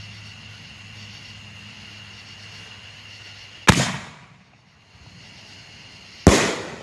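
Two loud firework bangs about two and a half seconds apart, each a sharp report with a short fading tail.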